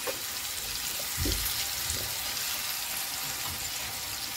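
Diced potatoes and green peas frying in oil in a nonstick pan, a steady sizzle, with a few soft knocks of a spatula stirring them in the first two seconds, the loudest about a second in.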